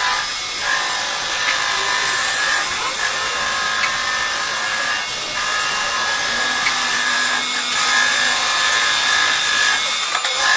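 Lathe cutting a turning workpiece: a steady scraping hiss with a high whine that breaks off briefly about every two and a half seconds.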